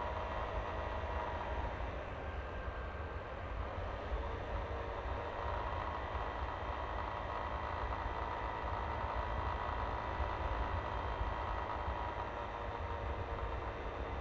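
Yamaha Aerox V3 scooter's single-cylinder engine running steadily with a faint steady whine, under low wind rumble on the helmet or body-mounted microphone.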